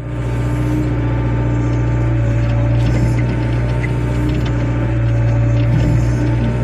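Wheeled excavator's diesel engine running steadily, a deep even hum with a faint steady whine above it and a few light clicks.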